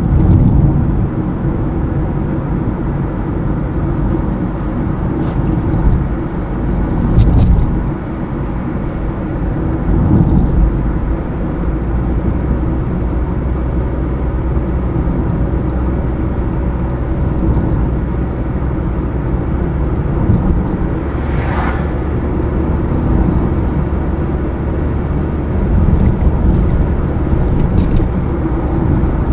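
A car driving along a highway: a steady rumble of engine and tyre noise, with a few louder swells about half a second, seven seconds and ten seconds in.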